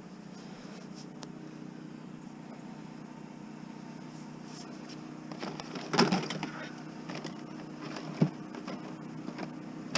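Plastic clattering and knocks as a discarded printer is handled and opened, over a steady low hum. The clatter is loudest about six seconds in, with one more knock about two seconds later.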